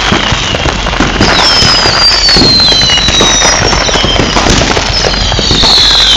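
Consumer fireworks going off in a dense, rapid crackle. High whistles glide slowly down in pitch, starting about a second in and again near the end.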